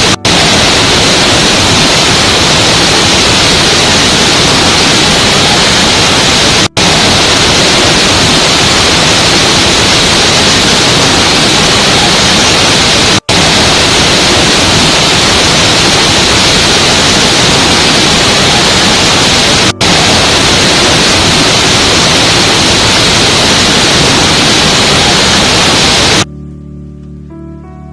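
Loud, steady rushing of a waterfall, from a short looped recording that drops out for an instant about every six and a half seconds. Near the end it cuts off suddenly and soft, slow music with gentle held notes begins.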